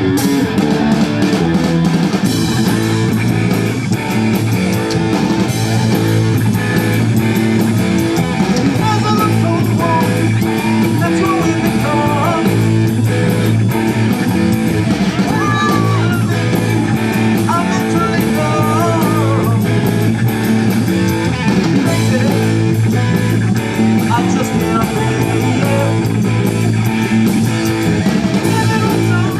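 Live rock band playing: electric guitar over bass and a drum kit, with bending lead guitar lines in the middle.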